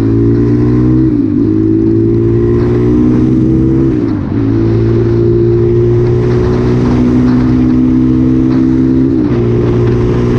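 Motorcycle engine under way, accelerating: its pitch climbs steadily and falls back sharply three times at the gear changes.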